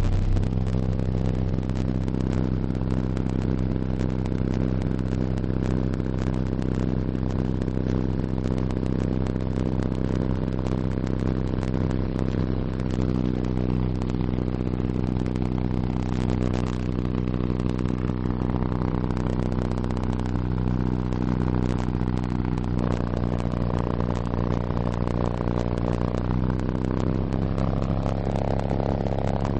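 Two RE Audio MX15 15-inch subwoofers in a ported box playing a loud, low bass test tone, starting at 33 Hz and pushed to high excursion. On the microphone it comes through as a steady, heavily distorted drone with many overtones, whose pitch pattern shifts a few times: about 13 seconds in, about 23 seconds in, and again near the end.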